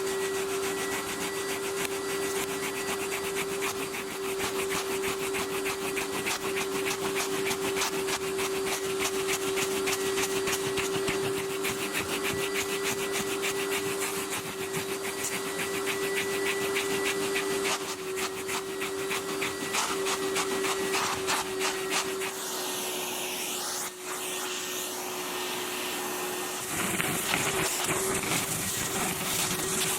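A vacuum cleaner motor running with a steady hum, with a fast scratchy rubbing over it, as of a nozzle or brush worked across a surface. The texture changes about two-thirds of the way through and turns fuller and harsher near the end.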